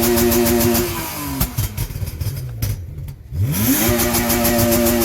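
Tuned car engine revved and held high, then let drop, with a run of exhaust pops and crackles on the overrun; about three and a half seconds in it is revved up again and held.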